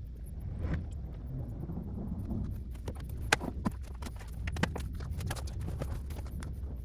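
Fresh coolant being poured from a jug into the motorcycle's radiator or reservoir, glugging in quick irregular pops over a steady low rumble.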